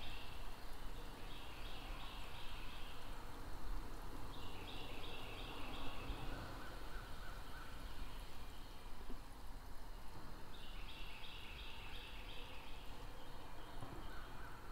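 Outdoor ambience: a bird calls in short runs of quick, evenly repeated high notes, several times a few seconds apart, over a low steady background rumble.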